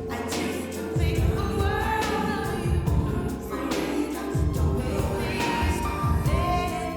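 A song playing: sung vocal lines with backing harmonies over bass and a steady drum beat.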